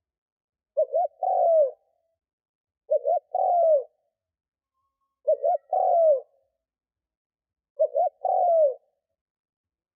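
Spotted dove (decoy bird) cooing: four calls about every two and a half seconds, each two short quick coos then a longer coo that falls in pitch at the end. It is the male's territorial call, played to provoke wild doves into answering.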